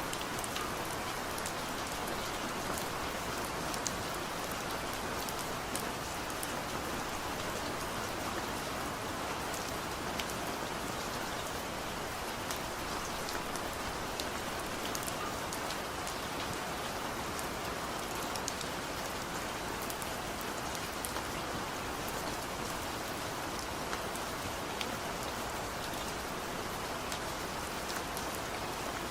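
Heavy rain falling steadily, a continuous hiss with scattered individual drop hits.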